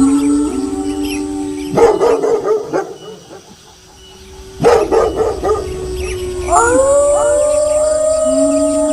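Several wolves howling together in long, overlapping held notes, broken twice by short bursts of harsh dog barking about two and five seconds in. The howls start up again near the end, each rising at its start.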